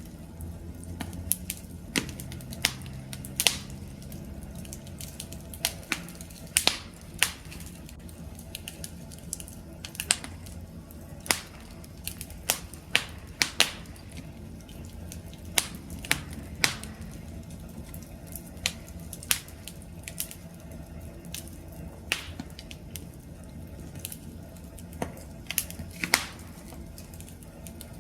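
Wood campfire crackling: irregular sharp pops and snaps, a few every second, over the low steady rumble of the flames.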